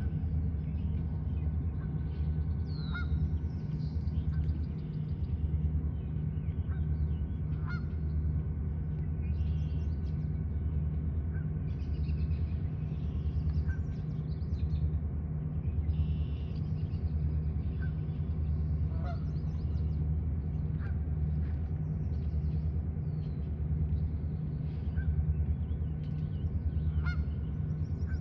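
A steady low hum that pulses evenly, with faint short bird chirps scattered over it, the calls of a small songbird such as the barn swallow in view.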